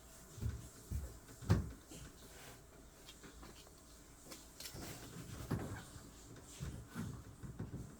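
Scattered soft knocks and bumps, as a toddler wipes and taps at an air conditioner: a few close together in the first two seconds, the loudest about a second and a half in, then more near the end.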